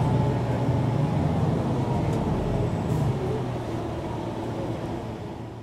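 MAN NG 313 articulated city bus running, its diesel engine a steady drone with a faint high whine above it, fading out near the end.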